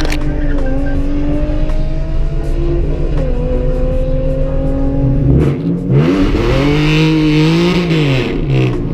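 Hyundai Genesis Coupe 3.8 V6, heard from inside the cabin. It is held at a steady rev that climbs slowly, then revs up and back down over about three seconds near the end with a loud hiss of spinning tyres: a small burnout.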